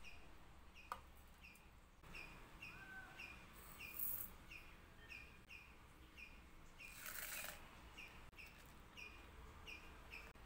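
A small bird chirping steadily, the same short call repeated a little under twice a second, with two brief rustles about four and seven seconds in.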